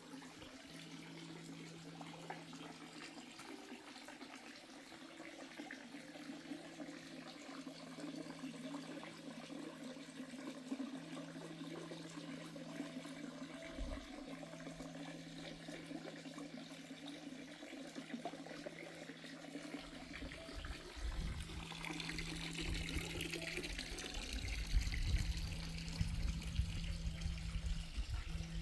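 Water trickling and splashing steadily, with a low steady hum underneath that breaks off briefly every few seconds; a low rumble joins about two-thirds of the way through.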